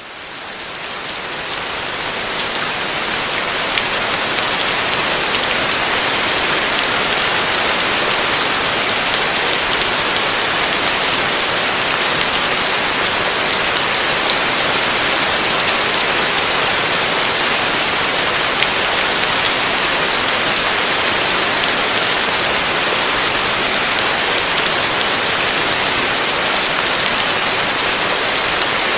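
Heavy rain falling on a roof, a steady dense patter of drops. It fades in over the first few seconds, then holds even.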